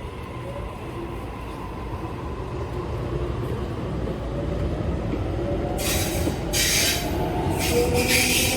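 Sydney Trains electric suburban train approaching, its low rumble growing steadily louder; from about six seconds in, a motor whine and repeated bursts of high hissing and screeching from the wheels and rails.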